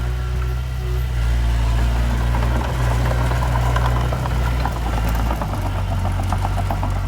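Diesel engine of heavy earthmoving machinery running steadily, with a run of rapid clattering through the middle and a change in the engine note about five seconds in.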